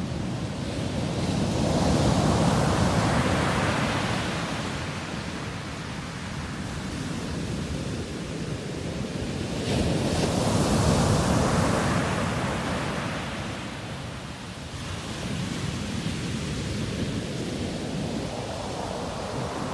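Sea waves breaking and washing on a shore, a steady rush of surf that swells twice: a few seconds in, and again from a sudden surge about halfway through.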